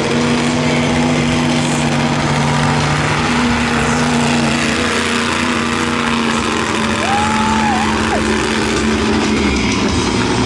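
Monster truck engine running steadily at low revs, its tone holding even and easing a little about halfway through, over a noisy arena background. A short high tone rises and falls about seven seconds in.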